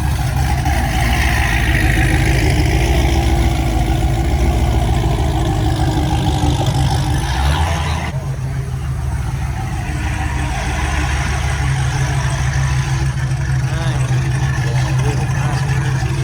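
Car engine running steadily and loudly, with an abrupt change in the sound about halfway through.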